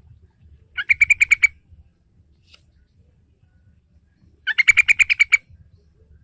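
Sooty-headed bulbul (trucukan) calling in two quick bursts of rapid, repeated notes. The first comes about a second in and the second about three and a half seconds later, each lasting under a second.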